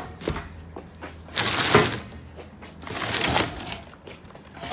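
Handling noise from objects being moved and worked by hand: a sharp click, then two bursts of scraping and rustling about a second apart, over a faint steady low hum.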